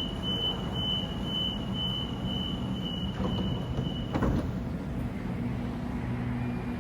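Sydney Trains Waratah electric train at the platform: a rapid high door-warning beeping, about two and a half beeps a second, stops with a thud about four seconds in, over the train's low steady hum.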